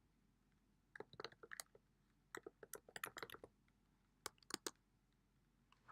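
Faint computer keyboard typing: three short runs of keystrokes, the longest in the middle.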